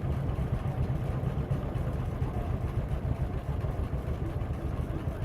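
An engine idling steadily: a low, even rumble of rapid pulses.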